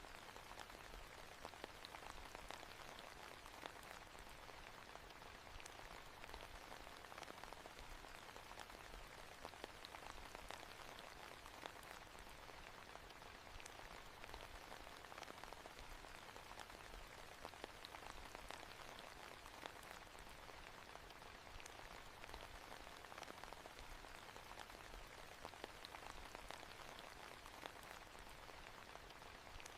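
Faint, steady rain falling, with many small ticks of single drops and no change in intensity.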